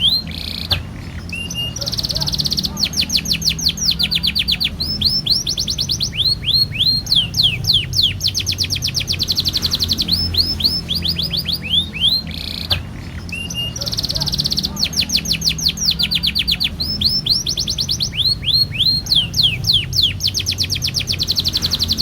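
Domestic canary singing a long, unbroken song of rapid trills of repeated rising notes, high-pitched, over a steady low hum. The same run of phrases comes round again about halfway through, as in a looped lure recording played to set other canaries singing.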